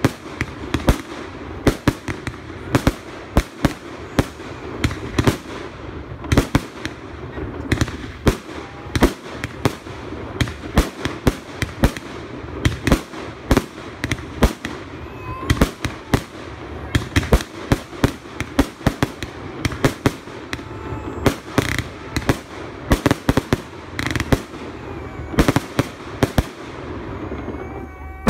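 Fireworks display: a rapid, irregular barrage of bangs from bursting shells, several a second, over a steady rumble, with a faint whistle near the middle and again near the end.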